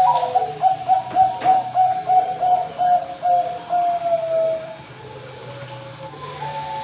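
Zebra dove (perkutut, Thai 'Bangkok' song strain) cooing its song phrase: a higher opening note, then a quick run of about a dozen short coos, ending in a longer drawn note about four and a half seconds in. After a short pause a new phrase begins near the end, over a steady low hum.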